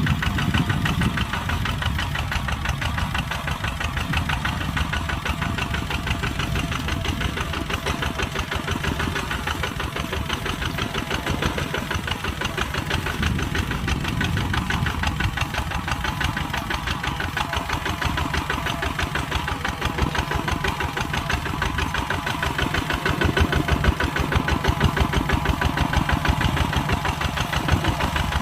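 Kubota tractor's diesel engine running steadily, with a rapid, even chatter of firing pulses.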